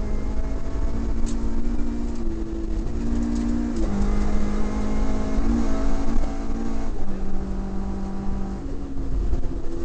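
Toyota Corolla Levin's 4A-GE twin-cam four-cylinder running hard under load, heard from inside the cabin over a heavy low rumble from the gravel road. Its pitch holds high, then drops sharply at gear changes about four seconds in and again about seven seconds in.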